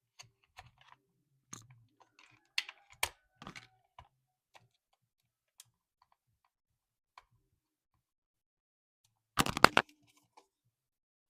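Scattered clicks and small handling noises of a toy car and its packaging being handled, then a quick run of rapid clicks about nine and a half seconds in, the loudest sound.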